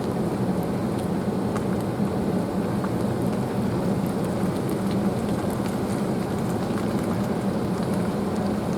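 Pickup truck driving slowly: a steady low engine hum under even road and tyre noise, with faint scattered ticks.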